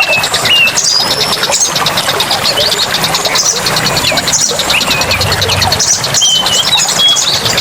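Several birds singing in a forest soundscape: short whistled notes that glide up and down, over a fast, even, high-pitched pulsing trill and a steady background hiss.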